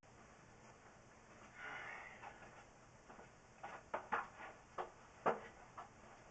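A brief rustle, then a run of about eight sharp clicks and knocks, irregularly spaced.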